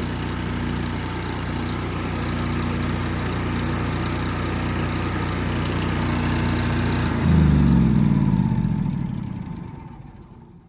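Engine idling steadily with a high whine over it. About seven seconds in, the whine stops and the engine is shut off, running down with a falling pitch and dying away.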